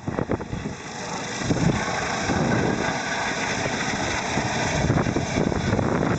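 EC135 air ambulance helicopter running close by, a steady dense rush of rotor and turbine noise with its downwash gusting over the microphone.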